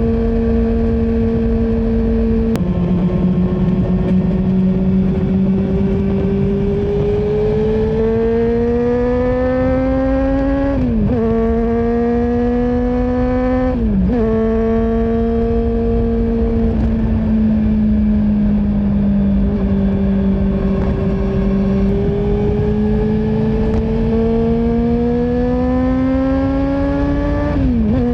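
Honda CB400SF's inline-four engine through a Yoshimura full exhaust, ridden on the road: it holds steady, then climbs in pitch under acceleration with sharp drops at upshifts about 11, 14 and 28 seconds in, and eases off between pulls. Wind noise rumbles underneath.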